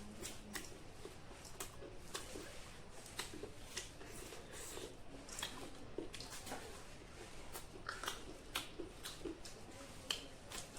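Close-up mukbang eating sounds: irregular crisp bites, chewing and wet mouth clicks, one or two a second.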